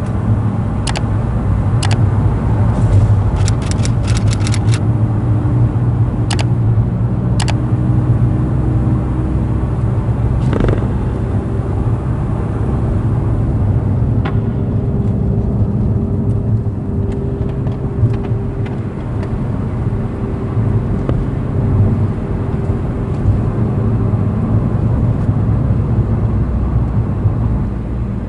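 Honda NSX's V6 engine running steadily under way, with a titanium aftermarket exhaust. A handful of sharp clicks in the first several seconds.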